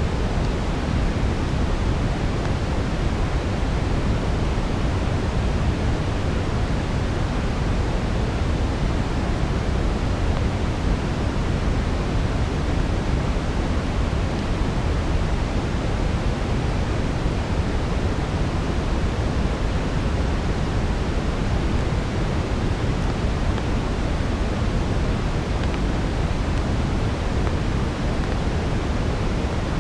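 Steady brown noise: an even, deep hiss weighted toward the low end, with no breaks or changes.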